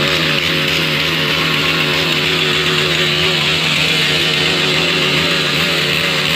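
Single-cylinder motorcycle engine held at high revs with the throttle open, a loud steady drone that wavers slightly in pitch.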